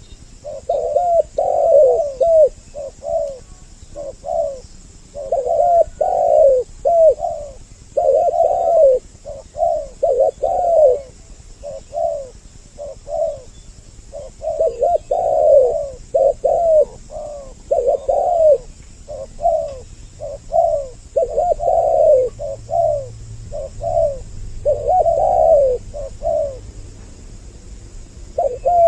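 Spotted doves (tekukur) cooing: a lure recording of two birds calling, male and female, in repeated phrases of several short low coo notes with brief pauses between them.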